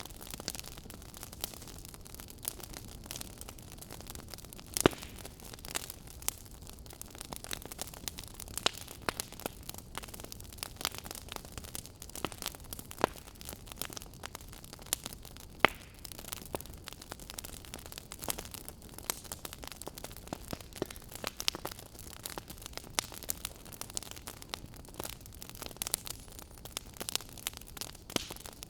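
Wood fire in a fireplace crackling steadily over a low hiss, with many small pops and two louder snaps, one about five seconds in and one about fifteen seconds in.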